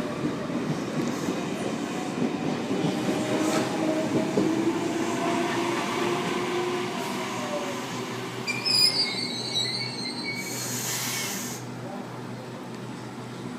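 Sydney Trains S-set electric suburban train pulling out of the platform, its wheels squealing in gliding tones as it moves off. A short burst of air hiss comes about ten seconds in, and the sound eases as the train draws away.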